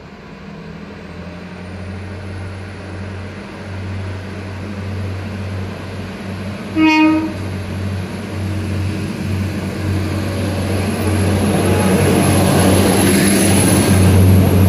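Passenger train approaching along the platform, growing steadily louder, with a low hum and a high thin whine. About seven seconds in it gives one short blast on its horn.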